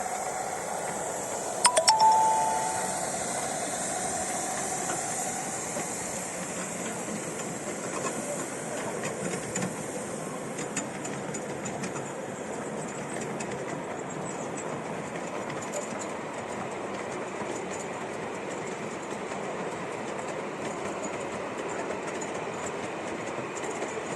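A steam-hauled train running on the rails, a steady rumble with wheels clicking over rail joints. About two seconds in, a few sharp clicks are followed by a brief, loud, steady high tone.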